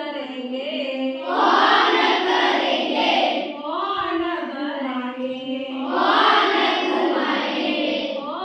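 A group of children chanting a song line in unison, their voices rising to two loud, shouted passages, one about a second and a half in and another about six seconds in.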